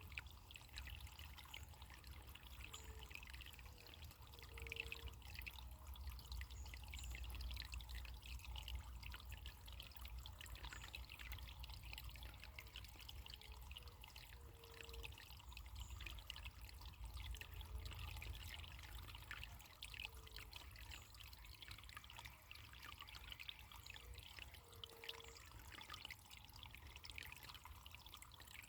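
Small stream of running water trickling and splashing steadily, with faint short low notes every few seconds.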